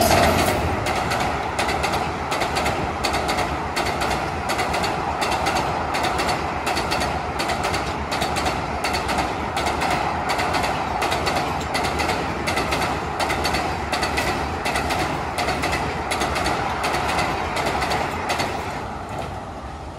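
Passing passenger train, its wheels clattering over rail joints in a steady, rapid run of clicks over a rolling rumble, fading away near the end as the train goes by.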